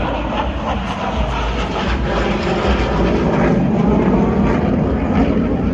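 Jet aircraft of an aerobatic display team flying past: loud, steady engine noise that grows slightly fuller after the first couple of seconds.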